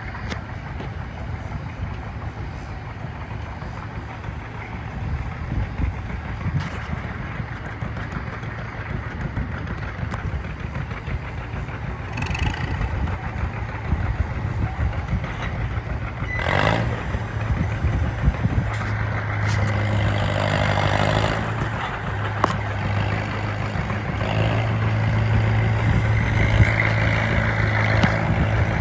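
Farmall M tractor engine running steadily at a pull, louder from about two-thirds of the way in, with a few brief rushing noises over it.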